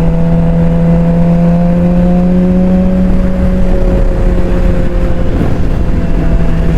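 Suzuki GSX-R600 inline-four engine running at a steady pitch while riding, over a low wind rumble; the note dips slightly about five seconds in.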